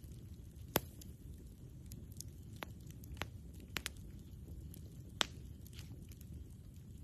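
Wood campfire crackling: about half a dozen sharp pops and snaps from the burning wood, the loudest about a second in and again near the end, over a steady low rumble.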